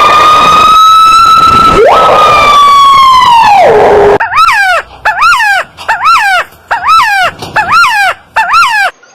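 A bird mimicking a siren: two long, loud, siren-like wails that fall in pitch at their ends, then a run of seven short rising-and-falling whoops like a car alarm.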